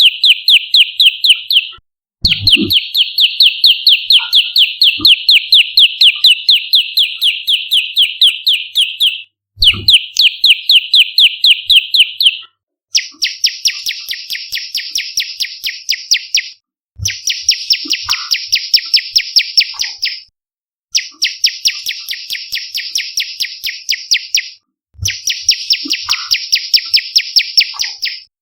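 Olive-backed tailorbird (prenjak lumut) calling loudly: bouts of rapid, evenly repeated sharp notes lasting a few seconds each, broken by brief pauses. Partway through the calls change to a harsher, wider-sounding series of the same rapid notes.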